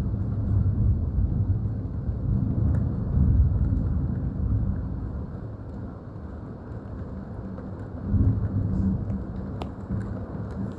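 Thunder rumbling in a thunderstorm: a long low rolling rumble that swells and fades, dies down around the middle and builds again near the end.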